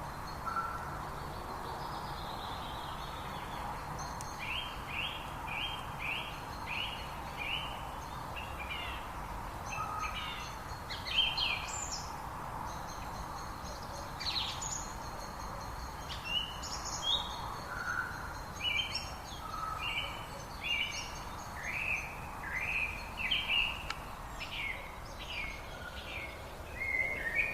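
Birds singing: runs of short repeated chirps, about two a second, with a few thin high whistled notes, over a steady background hiss.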